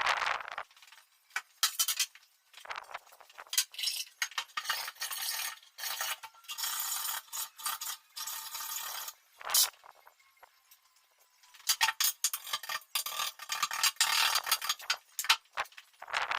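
Irregular clinking, rattling and scraping of small hard objects being handled, in bursts with short pauses between them.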